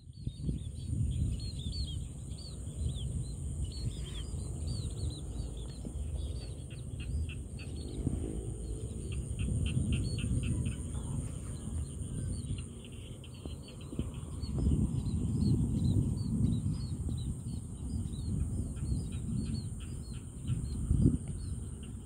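Small birds chirping in quick, repeated short notes, over a low, gusty rumble of wind on the microphone and a steady high-pitched ring.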